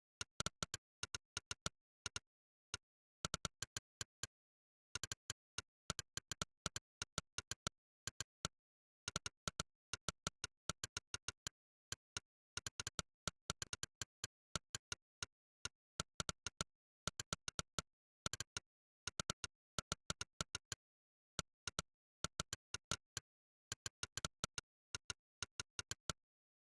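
Monkeytype's 'click' typing sound effect: short, sharp clicks, one per key typed, coming in quick irregular runs with brief pauses between them.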